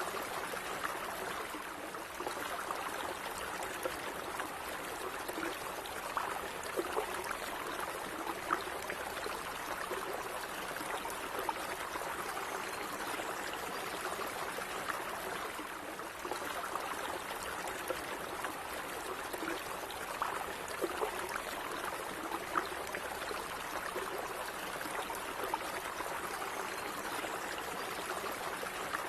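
A gently running stream, water trickling and gurgling steadily over stones, with small splashes and bubbles throughout.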